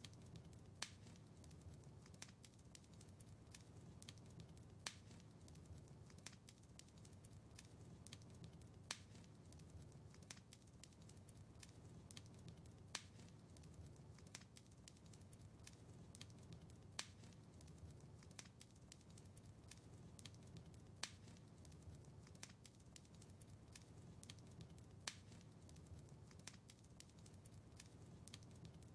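Wood fire crackling faintly in a fireplace: a constant scatter of small ticks and snaps over a low rumble, with a sharper pop about every four seconds.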